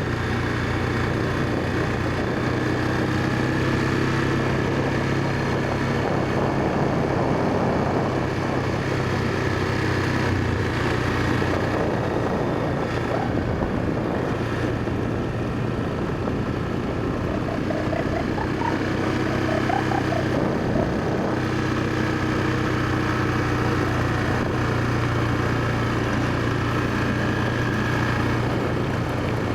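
Small dirt bike engine running steadily, its pitch drifting up and down a little with the throttle.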